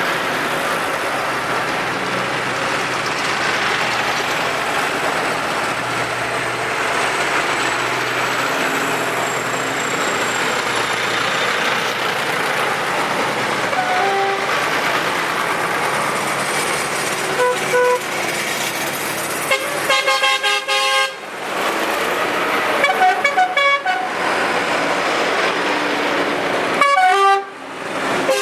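Passing tractors' engines running steadily. From about halfway, a string of short horn toots sounds, some single and some in quick runs.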